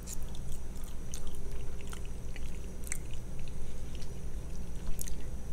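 A person chewing food, with scattered small wet mouth clicks and smacks.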